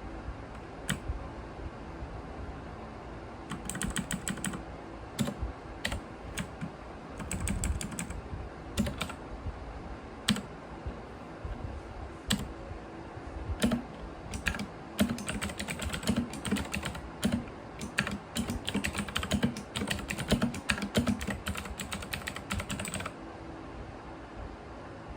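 Irregular light clicks and taps, sparse at first and then in quick dense runs, stopping about 23 seconds in.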